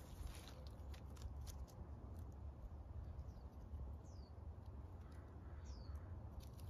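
Quiet outdoor ambience: a steady low rumble with scattered small clicks, and two short, high bird chirps falling in pitch, about four and six seconds in.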